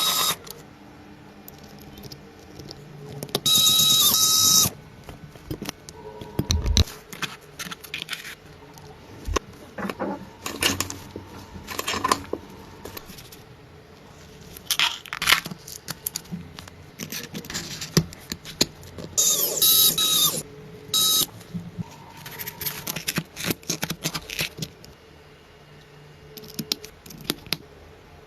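Irregular clicks and clinks of small hard parts being handled, with two short bursts of high whirring noise, about four seconds in and again at about twenty seconds.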